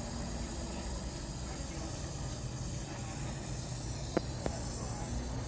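Steady hiss over a low rumble, with two short sharp clicks about four seconds in.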